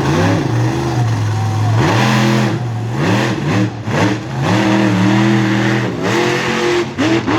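Boss Gator monster truck's engine revving hard again and again, its pitch climbing and dropping back about six times.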